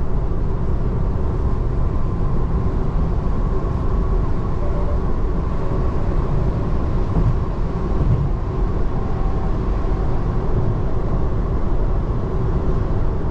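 Steady road and tyre rumble inside the cabin of a moving 2024 Tesla Model 3 Long Range electric car, with a faint steady hum over it.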